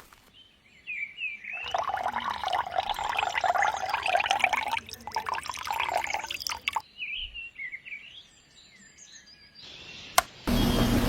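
Birds chirping, broken by about five seconds of pouring, splashing water that starts and stops abruptly. Near the end a sharp click, then a small motor starts running with a steady hum.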